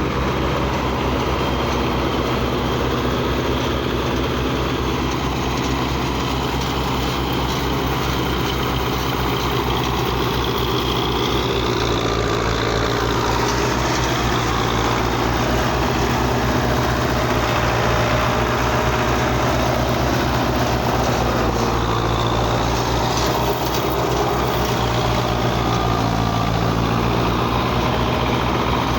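Tractor engine running steadily at a constant speed, with an even low throb.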